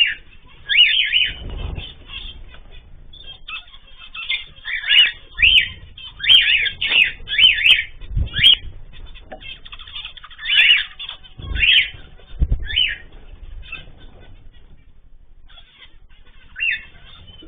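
Small cage birds chirping in quick, short calls that come in clusters, with a pause near the end, and several low thumps.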